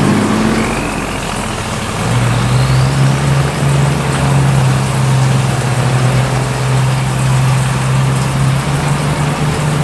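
Truck engine running steadily, a low even hum that settles in about two seconds in.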